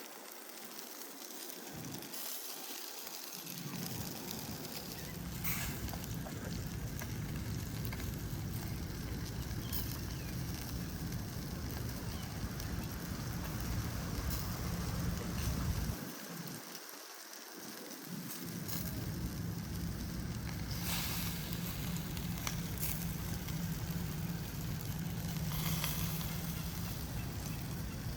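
Chicken grilling over an open wood fire, crackling and sizzling, with scattered sharp pops. Under it runs a low rumble that cuts out for about two seconds past the middle.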